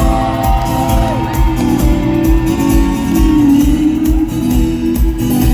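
Rock band playing the instrumental intro of a song live, with a steady kick drum about twice a second under bass and guitar.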